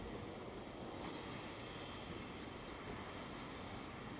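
Faint, steady rumble of an approaching passenger train hauled by an EU07 electric locomotive, still far off. A short high chirp about a second in.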